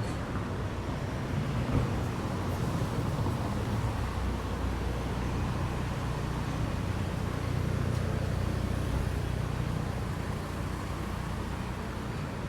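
Street ambience in strong wind: a steady low rumble of gusting wind and road traffic, swelling slightly about two-thirds of the way through.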